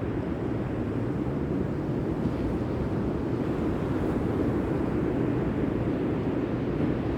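Steady low rumble of wind on the microphone, with the sea behind it.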